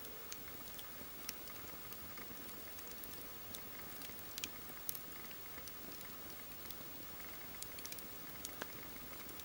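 Wood campfire crackling: irregular sharp pops and snaps from the burning logs over a steady soft hiss of the flames.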